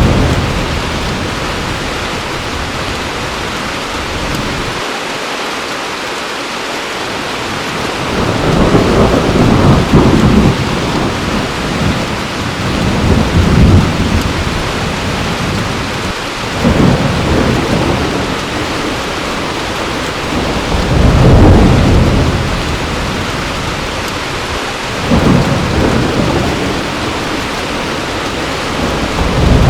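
Heavy rain falling steadily, with low rolls of thunder swelling up and fading every few seconds, about six times after the first eight seconds.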